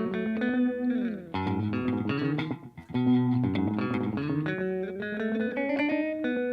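Electric guitar played through an Old Blood Noise Endeavors Black Fountain V3 oil-can delay pedal in its shorter ORG mode, each picked note followed by a slapback echo. A phrase of single notes with some sliding pitches, with a brief drop in level just before the middle.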